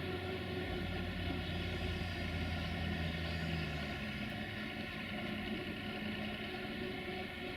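Railway locomotive running with a steady low hum. A higher tone in it drops out and is replaced by a slightly different tone about four seconds in.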